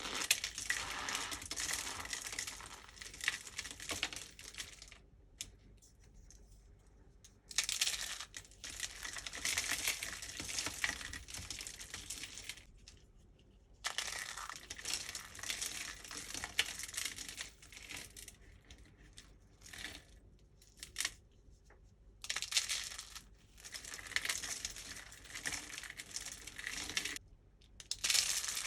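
Dry starch soap being crushed, with a dense crisp crumbling and crackling in spells of a few seconds, broken by short pauses.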